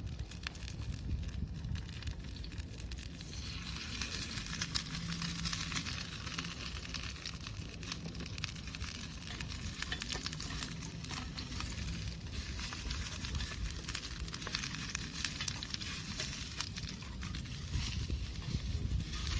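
Steady sizzling and crackling with many small pops, from cooking over a small wood fire in a camp fire pit.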